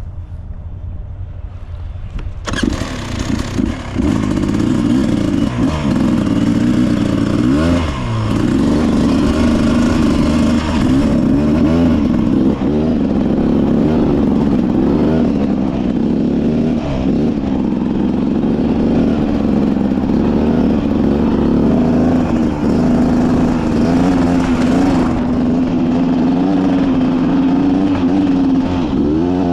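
Beta 300RR two-stroke single-cylinder dirt bike engine under way, its pitch rising and falling again and again with the throttle. It is quieter at first and turns loud about two seconds in.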